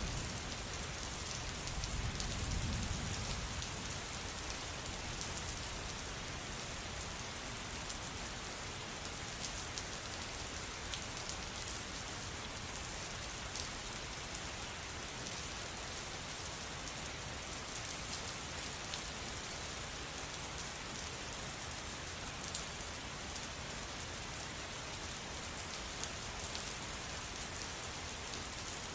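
Steady rain falling, with many scattered sharper drop ticks over a constant hiss. A brief low rumble swells about two seconds in.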